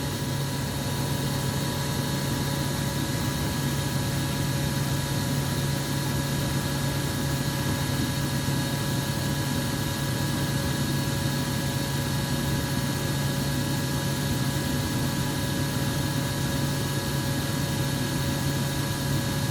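Steady mechanical hum with a strong low drone and a few faint steady whistling tones above it, unchanging throughout.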